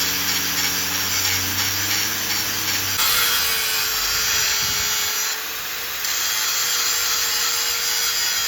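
A workshop power tool working metal with a steady rasping, grinding hiss. A low motor hum stops abruptly about three seconds in.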